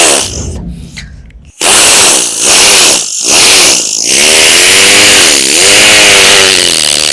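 A man imitating with his voice a motorbike with a burst silencer being started: a few loud rasping blasts with short breaks, then a continuous engine note that wavers up and down in pitch.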